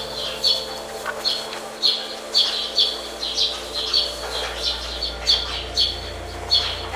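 A bird chirping over and over, short high chirps about twice a second, over a steady low hum.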